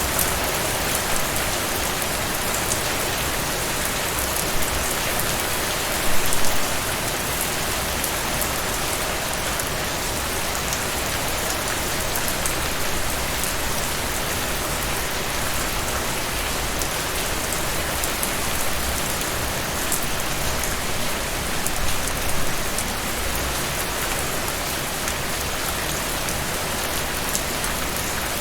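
Heavy rain falling steadily, an even hiss of rain on surfaces with many sharp drop patters, and a brief louder gust of drops about six seconds in.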